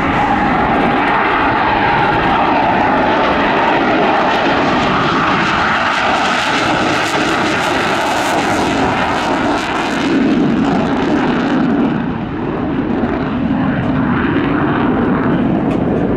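Fighter jet engines running loud and steady in display flight, their tone shifting slowly.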